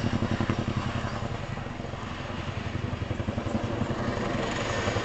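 Chinook tandem-rotor helicopter's rotor blades beating in a rapid, even pulse as it climbs, dipping slightly in loudness midway and growing louder again near the end.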